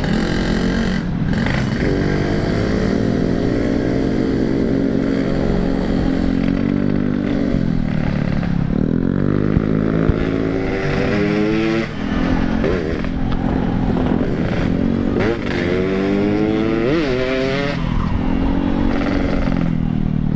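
Yamaha RX-King two-stroke single-cylinder motorcycle engine running under way, its revs rising and dropping repeatedly as the rider accelerates and eases off.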